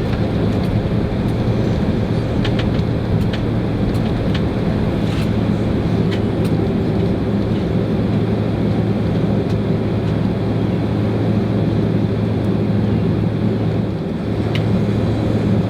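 Boeing 767-300 cabin noise with the engines running as the jet taxis before takeoff: a steady low hum and rush, with scattered light clicks and rattles.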